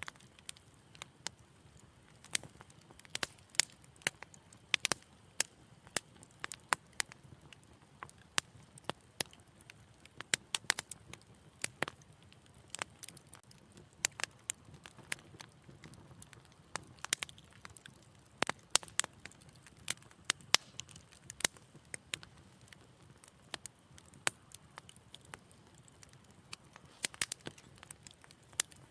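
Wood fire in a fireplace crackling: many sharp, irregular pops and snaps over a soft, low rumble of burning.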